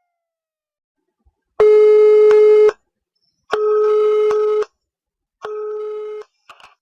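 Telephone call tone: three long, steady beeps about two seconds apart, each a little quieter than the one before and the last one shorter. The call is ringing out before it is answered.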